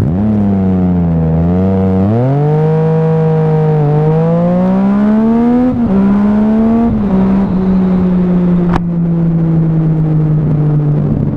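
Sport motorcycle with an aftermarket exhaust, heard from on board, pulling up through the gears. The engine note rises, drops at upshifts about six and seven seconds in, then runs at a steady, slowly easing pitch. There is one sharp tick near the end.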